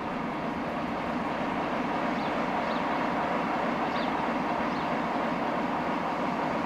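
Train hauled by a CFR EA-class electric locomotive (EA-090) running past: a steady rumble of wheels on the rails at an even level.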